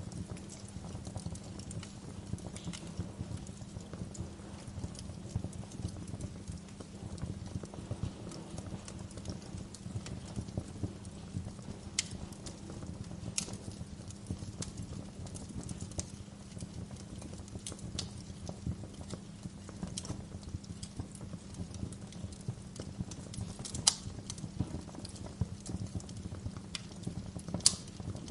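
Wood fire crackling steadily with a low rumble of burning, broken by irregular sharp pops, a few of them louder.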